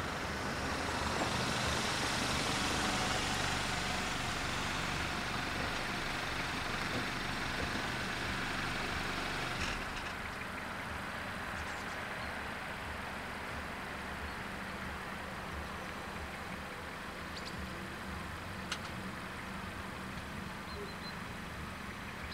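Car engines idling while waiting at a closed level crossing. A broad rushing noise is strongest over the first few seconds and fades out about ten seconds in, leaving the steady idle hum and a few faint clicks.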